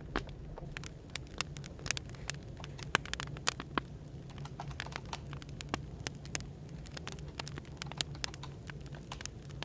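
Wood fire crackling, with irregular sharp pops and snaps, over a low steady hum.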